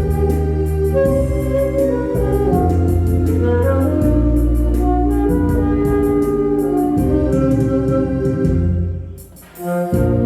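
Korean trot backing track with a bass line, a steady drum beat and sustained organ-like keyboard notes playing an instrumental passage. The music dips almost to nothing about nine seconds in, then comes back.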